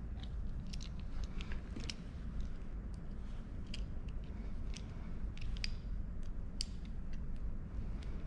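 Scattered small clicks and taps of an opened 13 A square-pin plug and its parts being handled during wiring, over a steady low hum.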